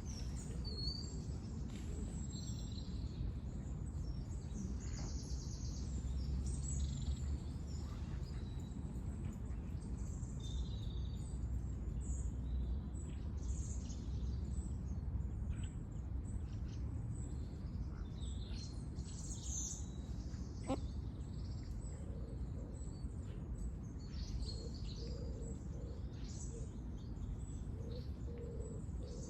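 Small birds chirping and calling on and off, short high chirps scattered throughout, over a steady low background rumble.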